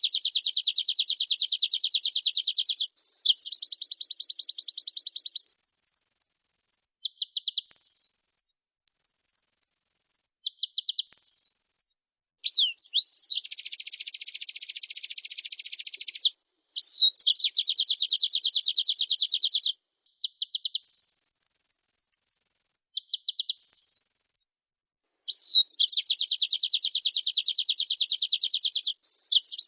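White-eye (pleci) singing loudly in long phrases. Fast trills of rapidly repeated notes, each opened by a quick sliding note, alternate with very high, shrill phrases, with sudden clean silences between phrases.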